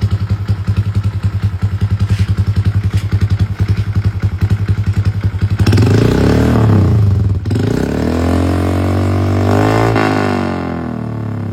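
Honda Vario scooter's single-cylinder engine running through an APX Racing aftermarket exhaust: a loud, evenly pulsing idle, then revved twice from about six seconds in, the pitch climbing and falling back each time.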